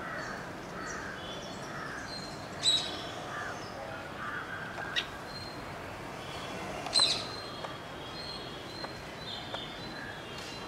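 Birds calling outdoors: short chirping notes throughout, with two louder harsh calls about three and seven seconds in, and a single sharp click between them.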